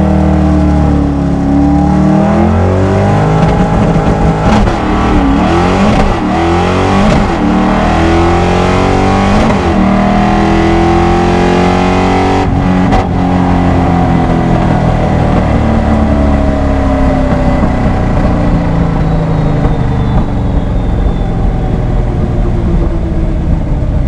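Drag car engine at full throttle down the strip: its pitch climbs and drops back several times as it shifts through the gears. About halfway through it breaks off sharply and then winds down as the car slows.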